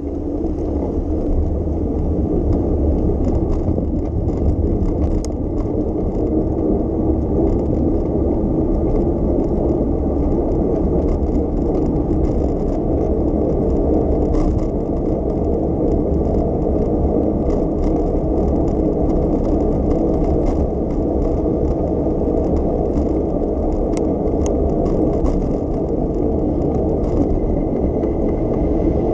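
Steady low rumble of a bicycle ride: tyres rolling on the road and wind on the microphone, with a few faint clicks and rattles.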